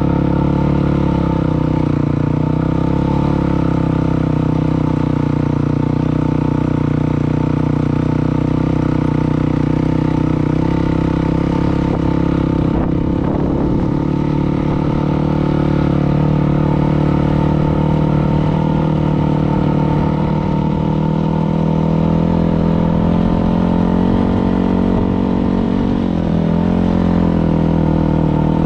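Dirt bike engine running steadily at a fairly constant speed, with a few small rises and dips in pitch.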